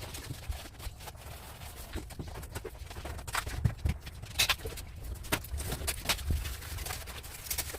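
Irregular knocks and clicks, several a second at times, over a steady low rumble.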